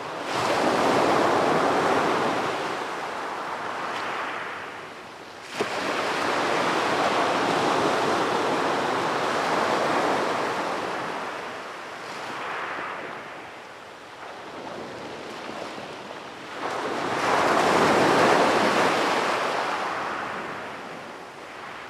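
Ocean waves breaking on a beach, surging in and washing back in several swells, the sharpest breaking about five and a half seconds in and another large one about seventeen seconds in.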